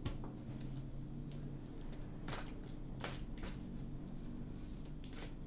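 Tarot cards being handled and laid out: a few faint, light taps and rustles over a steady low hum.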